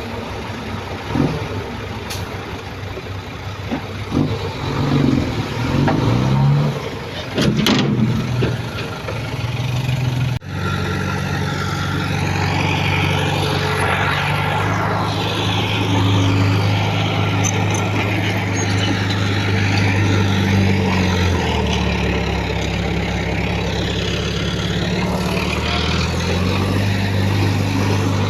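Diesel engine of heavy earthmoving machinery running steadily, its pitch dropping about three-quarters of the way through and rising again near the end. In the first third, before an abrupt cut, rising and falling pitched sounds come and go.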